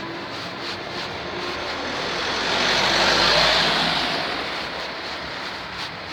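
A motor vehicle passing by on the road. It grows louder to a peak about halfway through, then fades away.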